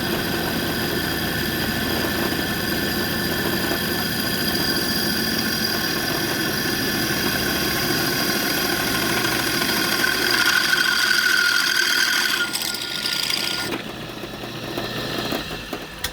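A motor running steadily with a whine, the whine growing stronger about ten seconds in before the sound changes and drops in level near the end.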